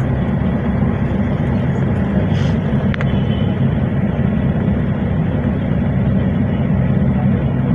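Steady, low rumble of a vehicle in motion.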